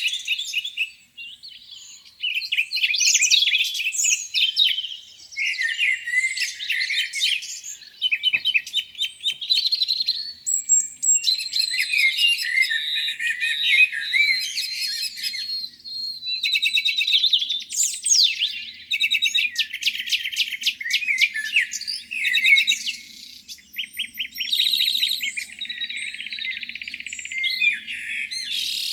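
Several songbirds singing at once in a spring morning chorus: overlapping chirps, rapid trills and whistled phrases, with brief lulls.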